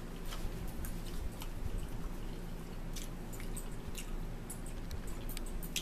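People chewing and biting food, smoked sausage and crackers, with scattered faint clicks over a steady low hum.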